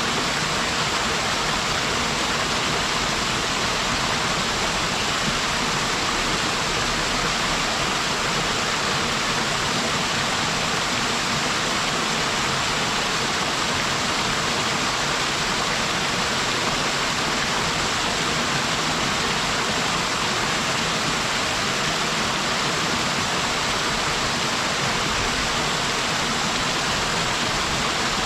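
Waterfall on a mountain stream: a steady, unbroken rush of falling water, more hiss than rumble.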